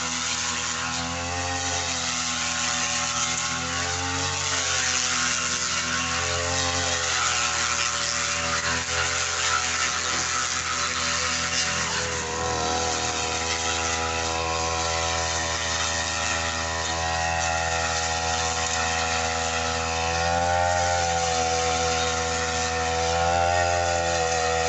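Brush cutter engine running at high speed, its pitch sagging and recovering every few seconds as it cuts through thick grass.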